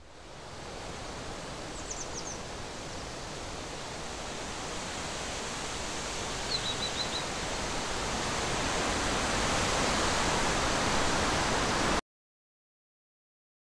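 Outdoor nature ambience: a steady rushing noise that slowly grows louder, with a few short bird chirps twice along the way, cutting off abruptly near the end.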